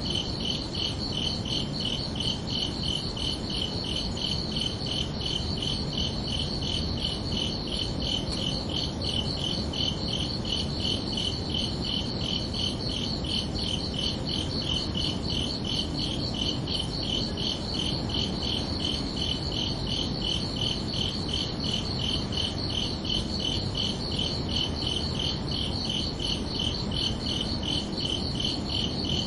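Crickets chirping steadily in fast, evenly spaced pulses at two pitches, over a steady low rumble.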